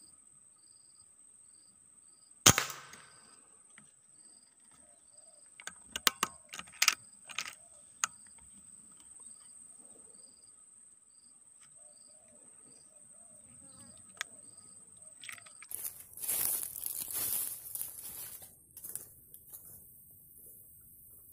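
A single sharp crack of a .177 PCP bullpup air rifle firing, about two and a half seconds in, followed a few seconds later by a quick run of sharp clicks and knocks and, near the end, a burst of rustling. A steady high insect trill and a repeating high chirp continue throughout.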